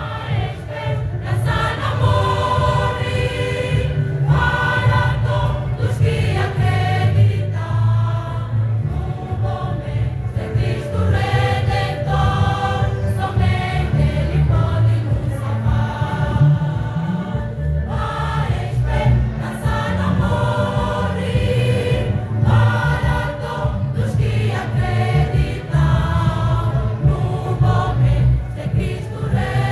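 A choir singing in phrases of a few seconds each, over a steady low bass line.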